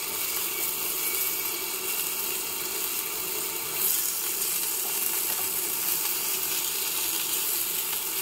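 Spiny gourd (kakrol) slices sizzling as they shallow-fry in mustard oil, with a spatula scraping the pan and turning them over. The sizzle flares up louder about four seconds in as a slice is flipped into the hot oil.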